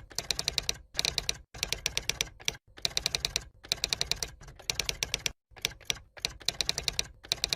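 Rapid typing clicks, about ten a second, in short runs broken by abrupt silent gaps: a keyboard-typing sound effect.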